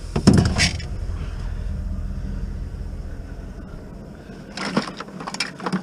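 Scrap being handled: a loud clatter about a third of a second in and a few more knocks near the end, over a low steady rumble that fades about three-quarters of the way through.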